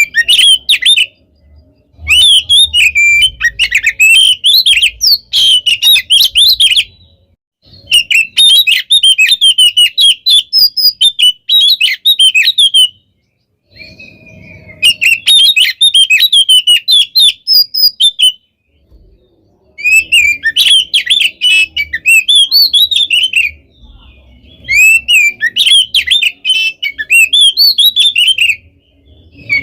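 Oriental magpie-robin (kacer) singing loudly: fast phrases of chattering, whistled and sliding notes, packed with mimicked calls. The phrases last several seconds each, with short pauses between them.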